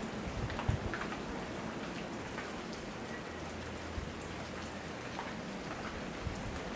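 Steady tropical rain falling, with scattered individual drops ticking and a few soft low thumps of heavier drips.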